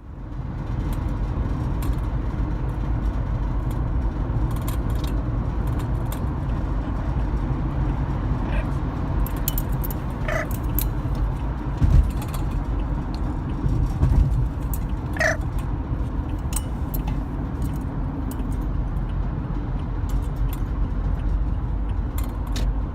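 Steady low road rumble inside a moving car, with a couple of louder bumps about halfway through. Three short calls from a yellow-naped Amazon parrot riding in the car stand out over it, along with a few faint clicks.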